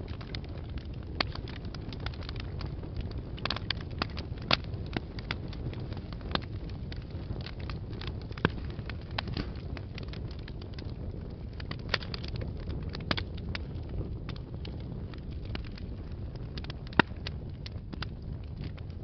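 Wood fire burning in a fireplace: a steady low rumble of the flames with irregular crackles and pops, a few sharper snaps standing out.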